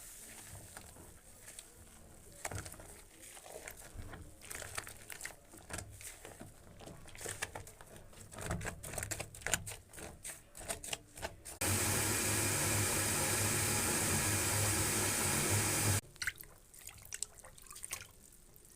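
Water splashing and dripping in small irregular spatters, then a tap running steadily for about four seconds, starting and stopping abruptly, before the dripping resumes.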